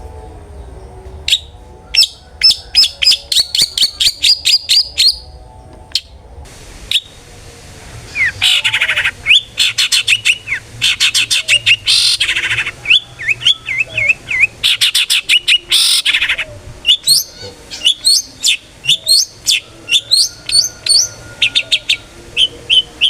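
Long-tailed shrike (cendet) singing loudly, with rapid runs of sharp high-pitched notes, quick rising whistles and harsh scratchy calls. There is a brief lull about a third of the way in before the song resumes, denser than before.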